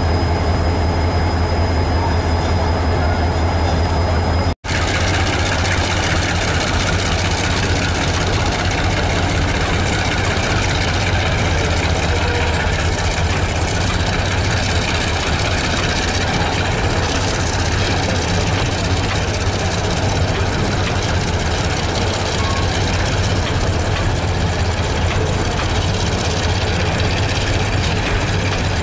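Diesel locomotive idling with a steady low hum, then, after a sudden cut about four and a half seconds in, a freight train of container wagons rolling past with a steady noise of wheels on rail over a continuing low hum.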